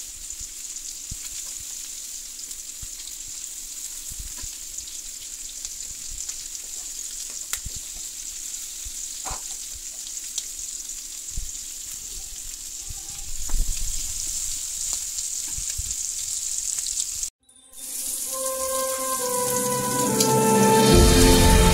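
Lamb chops and diced potatoes sizzling in a frying pan, with light clicks of a fork against the pan as the food is turned. Near the end the sound cuts out for a moment and music starts over a steady hiss.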